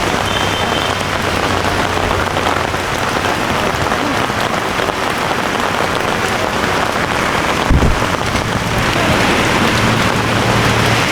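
Heavy rain falling steadily in a dense, even hiss. A brief low thump comes about eight seconds in, and a low steady hum joins near the end.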